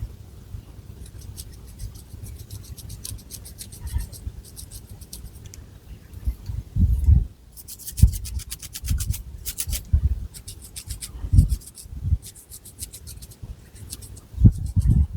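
Long fingernails scratching through thick hair on the scalp, in runs of quick, rasping strokes, with scattered low thuds from the hands and hair moving.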